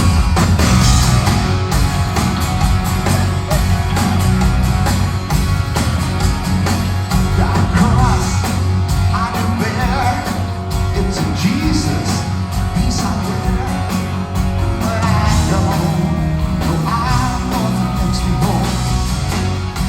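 Live rock band playing a song, with strong bass and drums under guitars, and a lead singer's voice coming in about eight seconds in.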